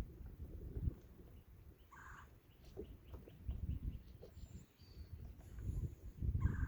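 Wind rumbling on the microphone, with a bird calling briefly twice, about two seconds in and near the end.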